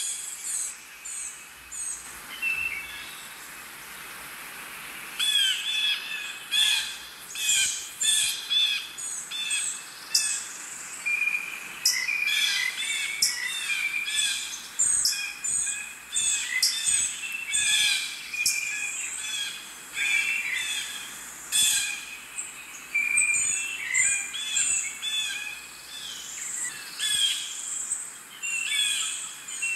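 Many birds calling and chirping with short, overlapping, repeated calls. The calls are sparse for the first few seconds, then build into a dense chorus.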